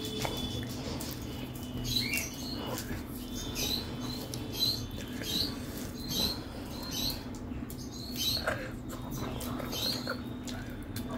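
Close-up chewing with wet mouth smacks, a little over one a second, along with fingers squishing and mixing rice on a metal plate.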